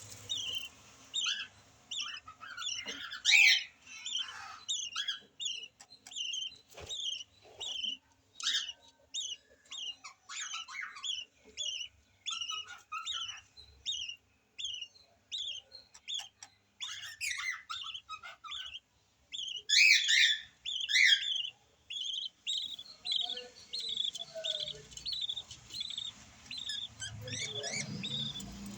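Yellow lovebirds chirping: a long run of short, high chirps, about two a second, with louder bursts of calling a few seconds in and again about twenty seconds in.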